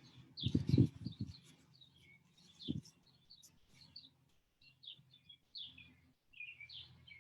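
Small birds chirping: many short, high calls scattered throughout. A few low thumps of handling near the microphone come in the first second and again about three seconds in, and are the loudest sounds.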